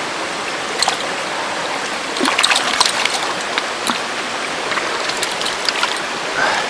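Shallow, rocky stream running steadily over stones, with scattered short sharp splashes, most of them between about two and three seconds in.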